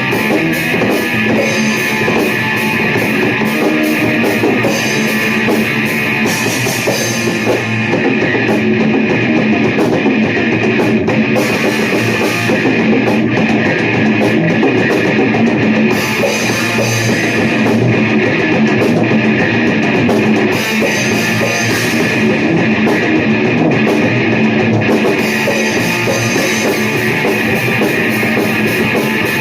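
Heavy rock music with distorted electric guitars and a drum kit, played loud and steady with fast, even drumming.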